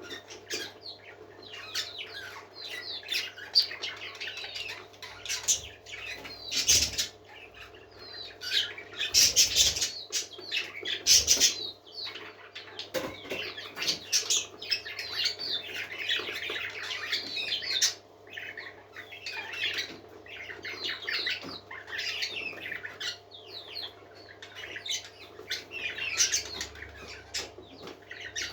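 A group of parakeets chattering and warbling non-stop, with a few louder, sharper bursts about a quarter to two-fifths of the way through, over a faint steady hum.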